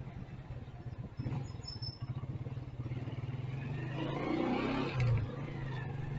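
Motorcycle engine running at riding speed, a steady pulsing drone, with street traffic noise swelling about four to five seconds in.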